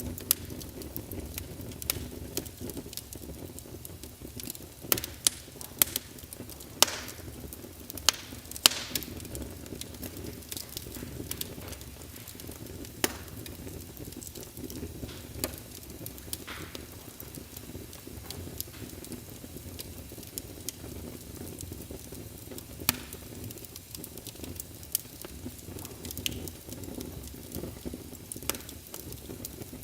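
Wood fire burning in a fireplace: a steady low rumble of the flames with irregular crackles and sharp pops, several of them loud.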